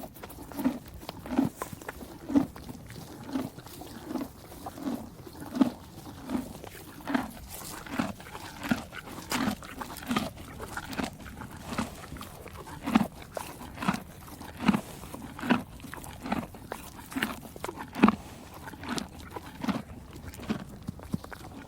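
A horse chewing hay, a steady rhythmic crunch a little faster than one chew a second.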